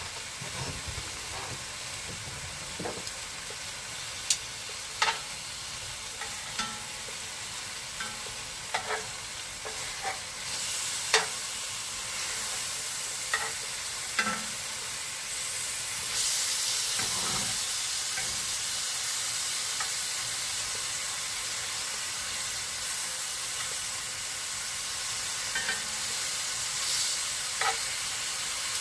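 Kebabs sizzling as they cook, put on frozen: a steady frying hiss with scattered sharp pops and crackles. The sizzle grows louder about ten seconds in and again around sixteen seconds.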